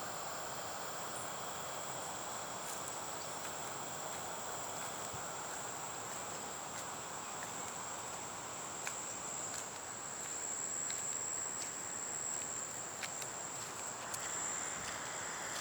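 Insects buzzing in one steady, high-pitched held tone over an even background hiss, with a few faint ticks.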